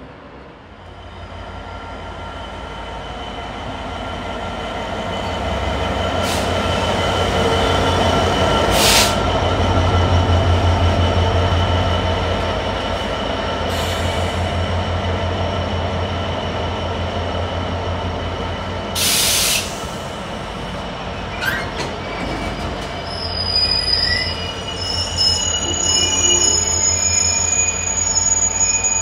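Freightliner Class 66 diesel locomotive passing at the head of a container freight train, its two-stroke V12 engine's low beat building to its loudest about ten seconds in, with a brief hiss a little before twenty seconds. The container wagons then rumble by with high wheel squeals near the end.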